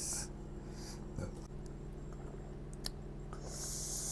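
Quiet eating sounds from people eating spicy noodles: a couple of short hissing breaths, one at the start and one near the end, and a few faint clicks of utensils or mouth, over a steady low hum.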